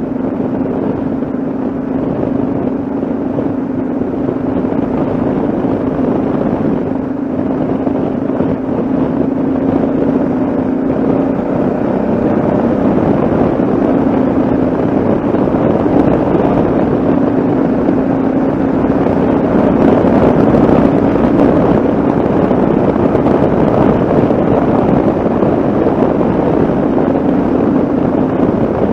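Yamaha XT660Z Ténéré's single-cylinder engine running at a steady cruising speed, its note holding nearly level with slight shifts, under a constant rush of wind on the microphone.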